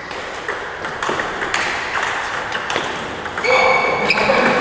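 Table tennis ball clicking off bats and table in quick, irregular taps during play, with a voice calling out near the end.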